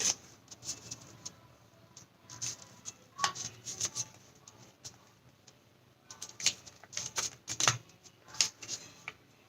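Square origami paper crinkling and crackling as it is folded and a corner is tucked inside, in short scattered clusters of crisp rustles with a lull of about a second and a half midway.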